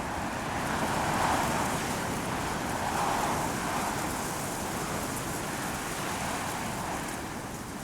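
Strong mountain wind gusting through Teide broom bushes, their stiff branches and leaves rustling and clicking. The gusts swell about a second in and again around three seconds, then ease off.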